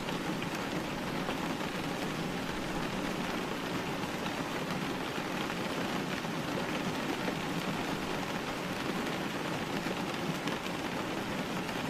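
Steady rain falling: an even hiss with a patter of many small drop ticks.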